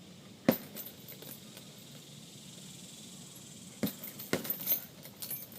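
Gloved punches landing on a heavy bag, with the bag's hanging chain rattling: one sharp hit about half a second in, then a quick flurry of hits and rattling around four seconds in.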